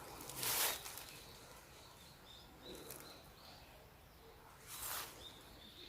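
Small birds chirping with short, high calls, and two brief noisy rushes, one just after the start and one near the end.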